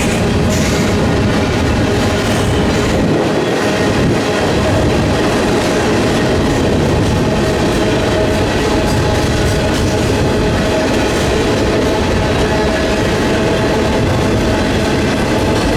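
Freight train cars rolling past at close range: a steady rumble of steel wheels on rail, with a clickety-clack of wheels over rail joints and faint squeals.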